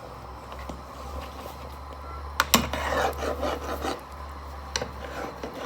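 A spoon knocks against a pot a couple of times, then scrapes and stirs through thick stew for about a second and a half, with another light knock near the end.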